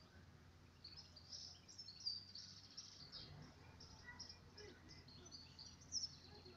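Faint birds chirping, many short high-pitched calls, over a low steady hum.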